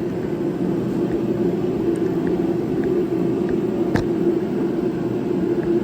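Steady low droning noise with one sharp click about four seconds in.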